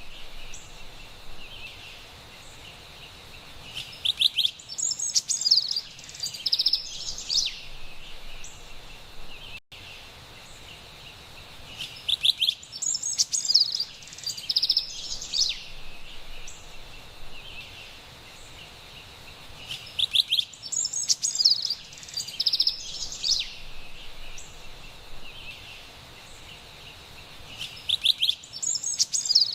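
Carolina wren singing: bursts of rapid repeated high notes, two phrases close together about every eight seconds, over a steady faint high background hiss.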